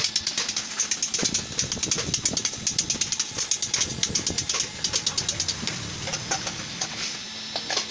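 Rapid tapping on sheet metal, about four to five sharp strikes a second, thinning out near the end.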